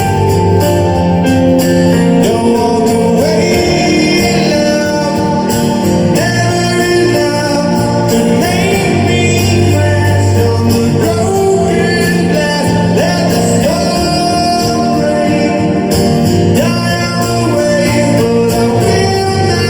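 Live rock band playing a song, with a male lead vocal over guitars, bass and drums.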